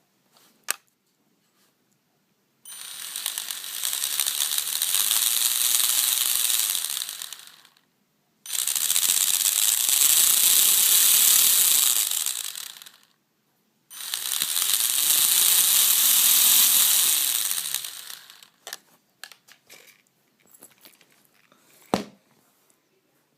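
Traxxas 1/16 Mini E-Revo's drivetrain run up three times, each burst a few seconds long with the motor pitch rising and then falling, over a harsh ratcheting, grinding noise from the spur gear: a gear mesh problem. A sharp click comes before the first burst and another near the end.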